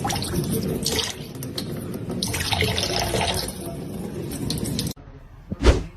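Water running and splashing, cut off abruptly about five seconds in, followed by a single low thump near the end.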